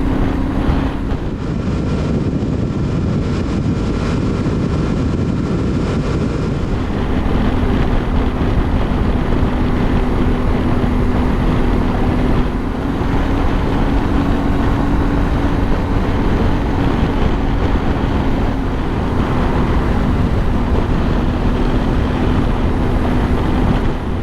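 Yamaha Ténéré 700's parallel-twin engine running at a steady highway cruise, under heavy wind and road noise.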